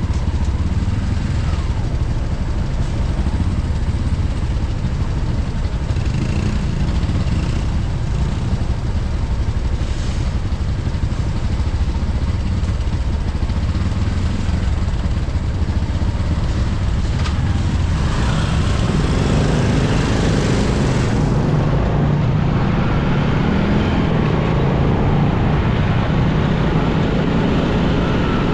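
Motorcycle riding through city traffic: steady engine and road noise with the sound of surrounding vehicles, growing fuller from about two-thirds of the way in.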